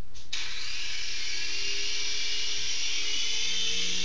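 Toy remote-control helicopter's small electric motors and rotor blades whirring in flight, a steady high-pitched whine that sets in shortly after the start.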